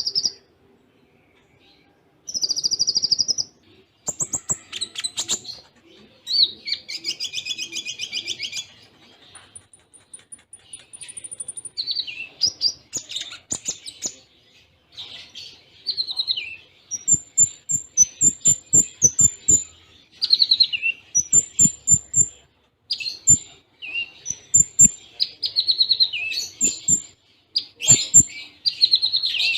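Konin (kolibri ninja) sunbird singing: rapid high chirps, short buzzy trills and sharp repeated notes in quick succession with short gaps, its song filled with imitated cililin calls. Short sharp clicks sound among the notes in the second half.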